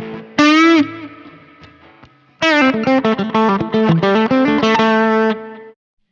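Electric guitar played through a Mesa Boogie Mark IIC+ amp model, on a preset transposed down three semitones for a baritone sound. A single bent, wavering note rings out and fades, then after a pause comes a run of single notes that stops shortly before the end.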